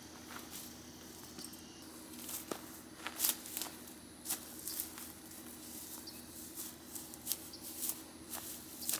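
Irregular rustling and sharp clicks of camping gear being handled during camp setup, over a faint steady hum.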